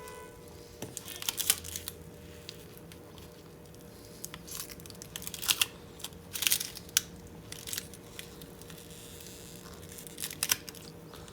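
Thin polarizer film being peeled off an LCD panel by hand, crackling and tearing in short clusters about a second in, around the middle, and near the end. The film is so thin that it rips as it lifts rather than coming away in one piece.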